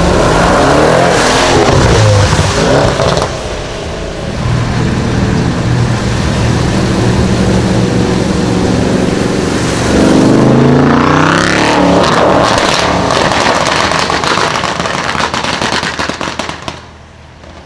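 Audi RS6 C7's twin-turbo V8 accelerating hard twice, its engine note rising each time. Near the end, a rapid run of exhaust crackles and pops on lift-off.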